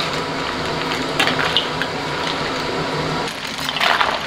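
A wok of meat and chili peppers sizzling steadily while being stir-fried, with a metal spatula clinking and scraping against the wok a few times, about a second in and again near the end.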